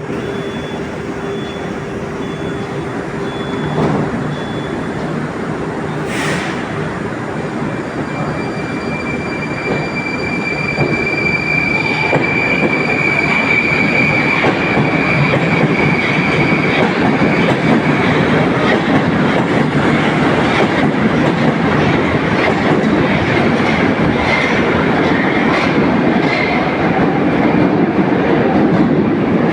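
81-760 "Oka" metro train pulling away: wheel-and-rail noise and a high steady whine from the drive grow louder as it gathers speed. There is a sharp sound about six seconds in, and wheel clicks over the rails toward the end.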